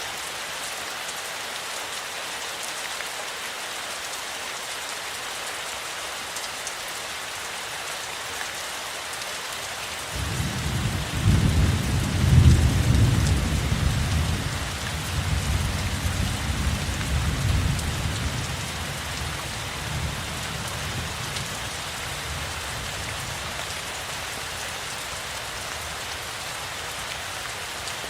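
Steady rainfall. About a third of the way in, a deep roll of thunder starts suddenly, is loudest a couple of seconds later, and rumbles on unevenly for about ten seconds before fading back into the rain.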